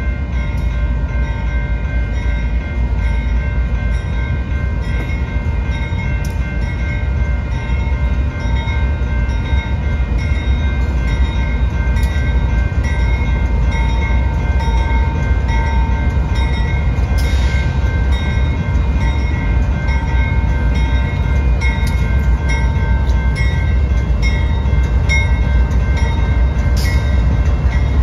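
Train running by with a steady, loud low rumble and several steady whining tones held throughout, growing slightly louder toward the end.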